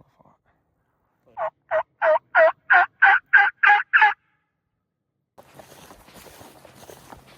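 Turkey yelps: a string of about nine evenly spaced notes, roughly three a second, growing louder, then stopping. Near the end, faint rustling outdoor noise.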